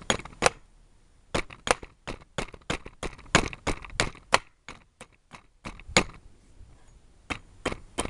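Small camp axe chopping hard wood into small chips: a quick, irregular series of sharp light chops, about three a second.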